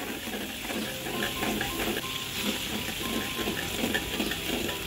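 Pounded red chilli and garlic frying in oil in a large metal wok: a steady sizzle, with a metal spatula scraping and stirring against the pan.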